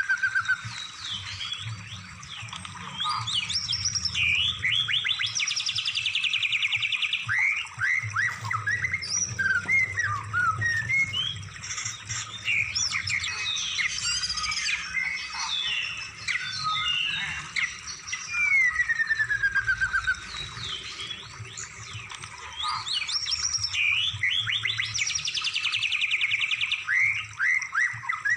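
Recorded songbird song of the kind played to train caged birds: a dense mix of quick chirps, falling whistled slurs and buzzy trills, with a low hum under it. The sequence repeats about every 20 seconds.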